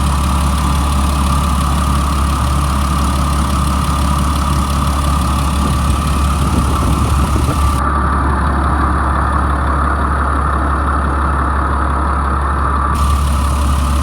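Caterpillar 3126 inline-six diesel engine of a Blue Bird All American school bus idling steadily, warmed up and sounding really good. A higher hiss lies over it for the first half and comes back near the end.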